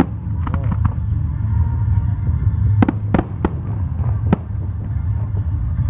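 Aerial firework shells bursting: three sharp bangs in quick succession about three seconds in and a fourth a second later, over a steady low rumble.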